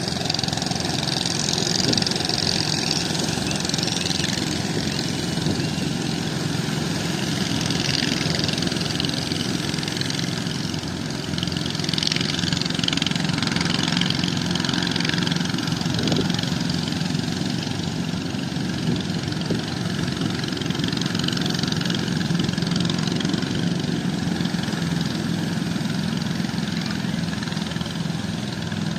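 Fishing boat engine running steadily, with a steady hiss over it.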